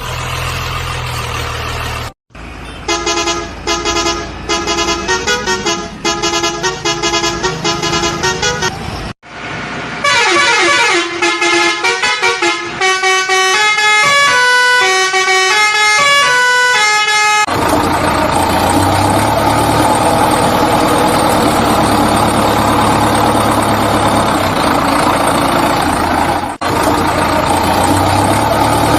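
A vehicle engine runs for the first two seconds. Then a multi-tone musical horn plays a short repeated tune, followed by a run of falling and rising notes. From about 18 seconds a heavy engine idles steadily.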